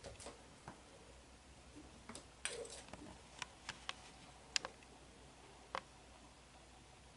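Light clicks and taps from a kitten playing with a toy, coming in small quick clusters and stopping about six seconds in.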